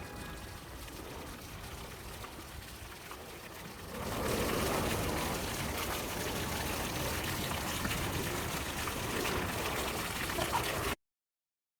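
Running water trickling and splashing steadily, coming in about four seconds in after a faint hush, then cutting off abruptly near the end.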